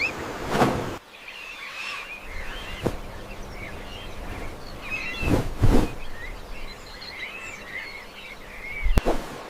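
Small birds chirping and twittering over a steady forest background hiss, interrupted by a few brief, louder whooshes and a sharp click near the end.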